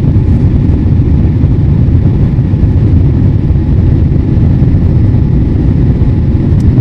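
Boeing 787-8 Dreamliner cabin noise during the climb: a loud, steady low rumble of the engines and rushing air.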